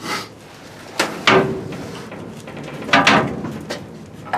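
A few sharp clunks and knocks, several seconds apart, with a faint steady hum underneath.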